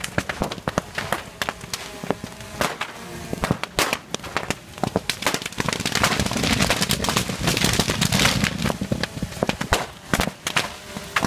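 A string of firecrackers popping rapidly and irregularly, thickening into a denser, louder crackle about six seconds in.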